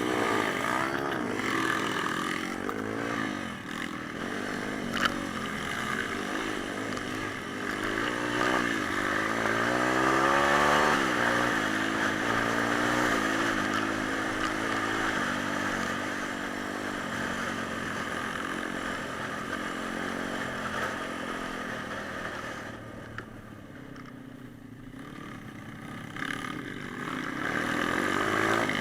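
Pit bike engine revving up and down as the bike is ridden, its pitch rising and falling with the throttle. It goes quieter for a few seconds near the end, then picks up again.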